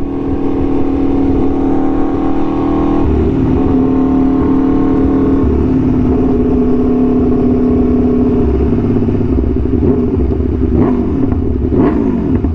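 Aprilia Tuono V4 1100's V4 engine running through an SC-Project exhaust while riding, a steady engine note whose pitch shifts a few times as the revs change.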